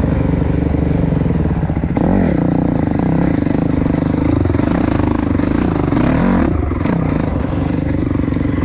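Dirt bike engine running under load, its pitch dipping and climbing again with the throttle about two seconds in and again near the end.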